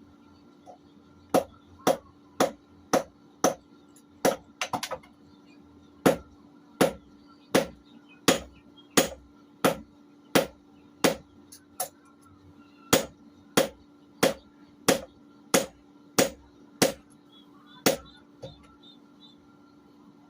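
Hand hammer striking a blade on an anvil during forging: a steady run of ringing metal blows, about one and a half a second, with a quick flurry of light taps about five seconds in and a short pause near the middle.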